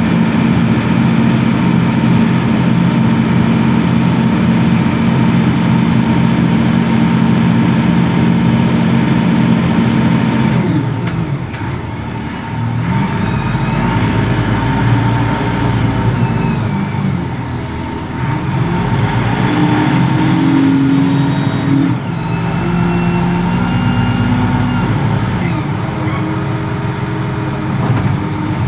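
Heavy diesel engine of a container reach stacker, running steadily at first, then revving up and down repeatedly from about ten seconds in as the machine works.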